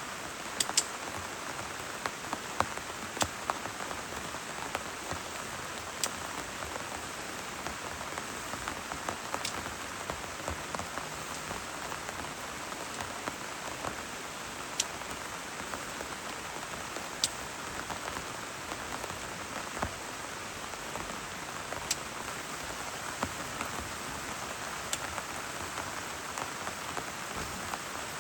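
Steady heavy rain falling, with scattered sharp taps of large drops every couple of seconds.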